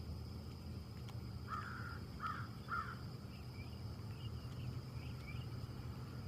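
A bird gives three harsh calls in quick succession, followed by several fainter, higher calls, over a steady low background rumble.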